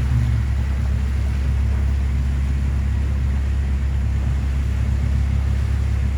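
A vehicle running at a steady speed: an even, unchanging low drone of engine and road noise.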